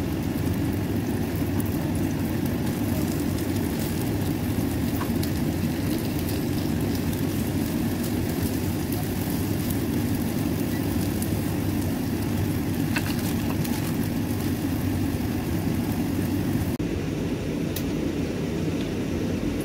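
Whitebait patties frying in oil in a nonstick pan: a steady sizzle over a constant low rumble, with a few light clicks from the plastic spatula. The sizzle drops away near the end, leaving the low rumble.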